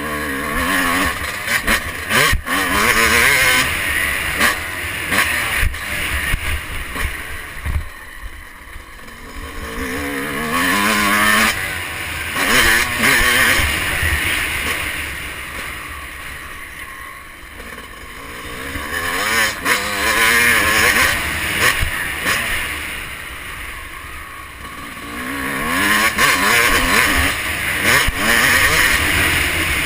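Motocross bike engine heard onboard, revving up and dropping off again in repeated surges, with wind rushing over the camera microphone and occasional sharp knocks.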